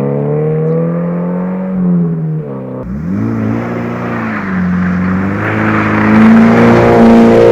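Subaru BRZ's FA20 flat-four running through a Corsa cat-back exhaust. The engine note drops sharply about three seconds in, then climbs again and gets louder toward the end, as the car accelerates.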